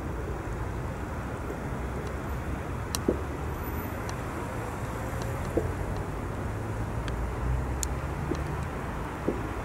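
ChS7 DC electric locomotive with a passenger train approaching, a steady low rumble that grows slightly louder toward the end. A few sharp clicks are scattered through it.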